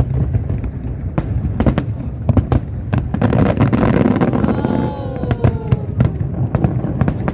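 Aerial fireworks display: rapid bangs and crackling bursts over a steady low rumble, swelling louder around the middle, with a few falling tones just after.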